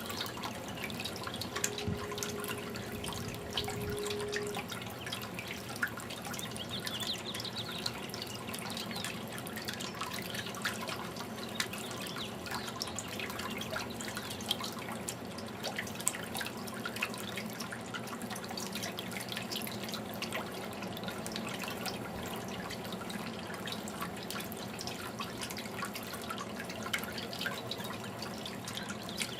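Fountain water trickling and dripping steadily, with many small drips and splashes. A brief steady tone sounds for about three seconds near the start.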